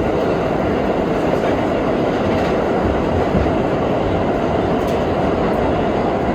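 R32 subway car running at speed through the tunnel, heard from inside the car: a loud, steady rumble of wheels on rail.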